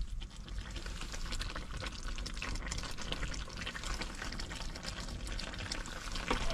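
Steady crackling, watery cooking sound from a pot or pan on the stove, with many fine clicks.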